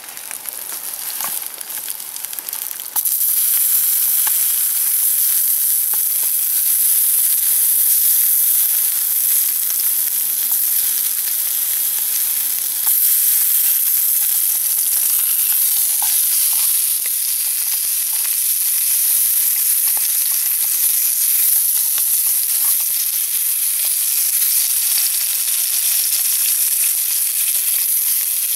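Sausages, tomato halves and black pudding sizzling in oil in a frying pan over a campfire: a steady, high hissing sizzle that is softer for the first three seconds and then jumps louder.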